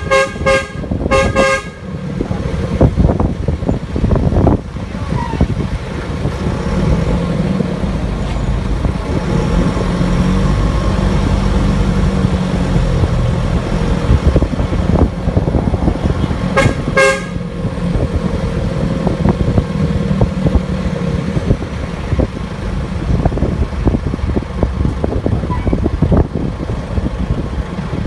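Vehicle horns honk over steady road-traffic engine noise: two short honks at the start and one more about seventeen seconds in.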